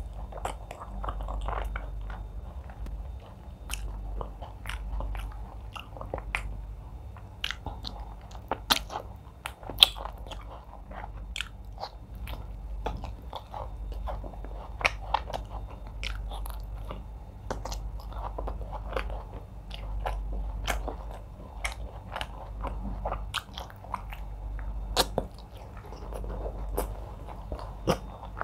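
Close-miked chewing and mouth sounds of a person eating fufu with egusi soup, meat and fish by hand: continuous chewing with frequent sharp wet clicks from the mouth.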